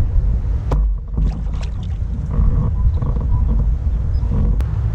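Heavy low rumble of wind buffeting an action camera's microphone on a kayak, with two sharp clicks, one about a second in and one near the end.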